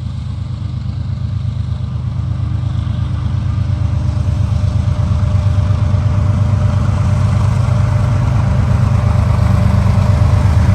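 Diesel engines of a slow CSX freight train's locomotives running as the train approaches, their low, pulsing sound growing steadily louder.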